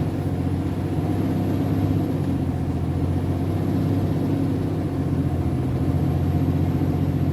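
Diesel engine of a MAN TGS 33.480 heavy truck running steadily with a low, even drone.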